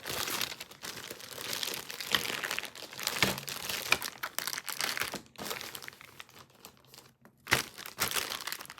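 Crinkling and rustling of packaging or carrier material as a new bird carrier is handled, with many small crackles and one sharper click near the end.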